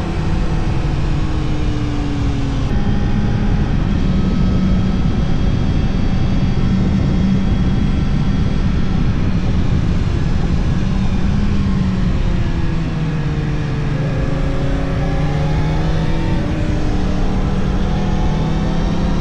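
Yamaha R1 sport motorcycle's inline-four engine pulling along at steady revs under wind noise, easing off a little past halfway and then revving up again near the end.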